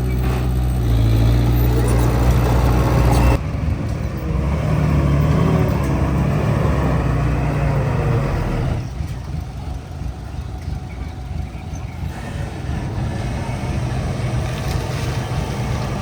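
Heavy diesel engine of earthmoving equipment running, with a steady low drone. The sound changes abruptly about three seconds in to a different engine note that rises in pitch as it revs, then changes abruptly again about nine seconds in.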